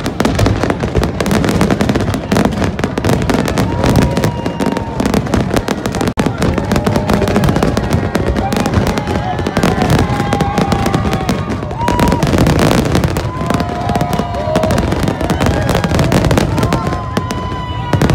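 Aerial fireworks shells bursting in a rapid, unbroken string of bangs and crackles.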